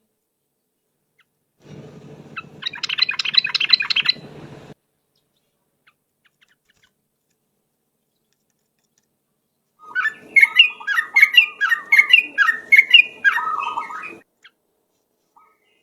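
Yellow-vented bulbul (trucukan) singing in two bursts of rapid bubbling, chattering notes, a short one with a low hum beneath it, then after a few seconds' pause a longer, louder phrase.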